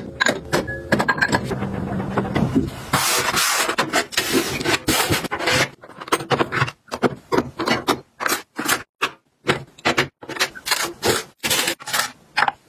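Hands handling kitchen items and packaging: rustling and scraping for the first few seconds, then a rapid, uneven run of sharp clicks and taps as things are set down and put in place.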